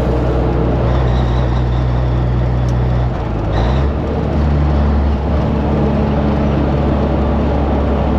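Heavy truck's diesel engine running under load. About three seconds in, the engine note drops out briefly and comes back at a new pitch, as at a gear change.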